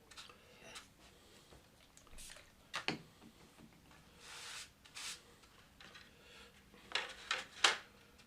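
Handling of 3D-printed plastic model parts on a work surface: a few sharp taps and clicks, the loudest near the end, with a short rubbing sound in the middle.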